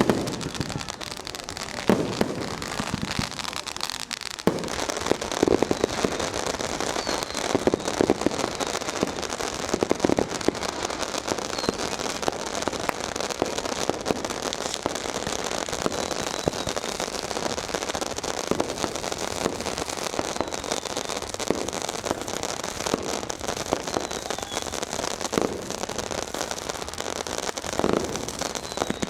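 Fireworks and firecrackers going off densely and without pause: a continuous crackle of many small bangs, with louder booms every few seconds.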